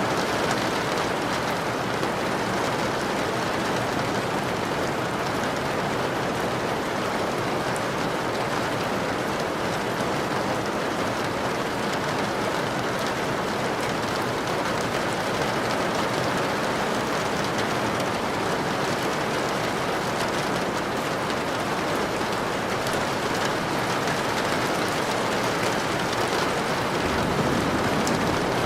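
Steady rainfall, an even hiss of drops falling on surfaces with fine patter.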